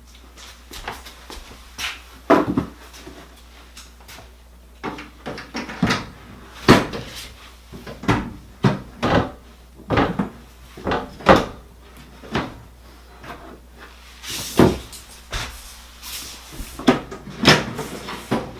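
Repeated irregular knocks, clicks and clatters from the dryer pedestal drawer and its parts being handled and fitted by hand.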